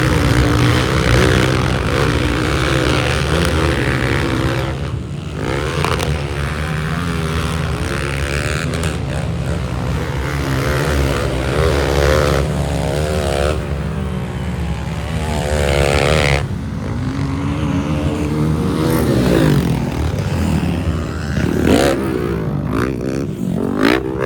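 Motocross dirt bike engines running loud, the pitch rising and falling over and over as the throttle opens and closes, with brief dips in revs a few times.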